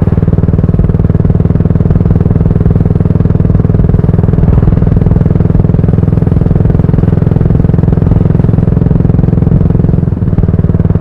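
Yamaha SR400's single-cylinder engine running steadily through an aftermarket GOODS tapered cone muffler, its firing pulses closely spaced, with a brief drop in level about ten seconds in.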